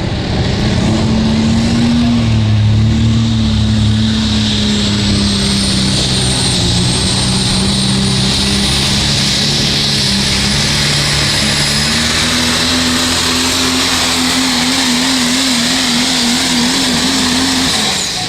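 Diesel pulling truck running flat out under the load of the sled, its engine note held steady with a thin high whine rising slowly above it. About three-quarters through, the engine note wobbles up and down, and it drops off just before the end.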